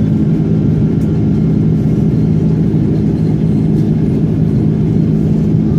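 Steady, loud engine and air drone heard inside the cabin of an Airbus A330-300 airliner, running evenly without change.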